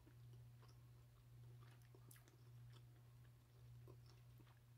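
Faint chewing of food with small, scattered mouth clicks, over a steady low hum.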